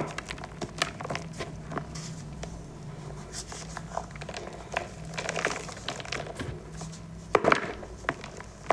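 Green-dyed gym chalk balls being crushed: scattered crisp crunches and crackles, with a louder cluster of crunches about seven and a half seconds in.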